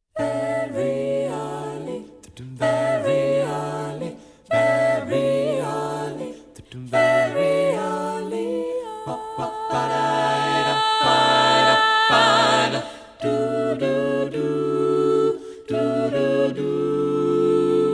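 Music: layered unaccompanied voices humming and singing held chords in close harmony, phrase after phrase with short breaks between.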